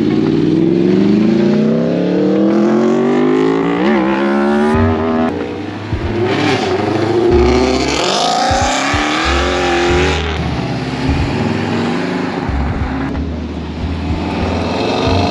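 A car engine revving: the pitch climbs steadily over the first five seconds, then rises and falls through several more revs.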